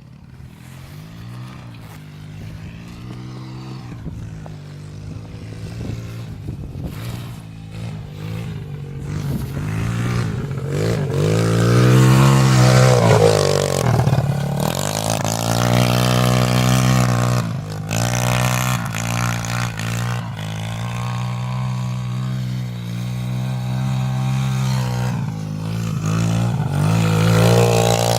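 Pit bike engine revving, its pitch rising and falling with the throttle, getting louder over the first twelve seconds or so and staying loud after that.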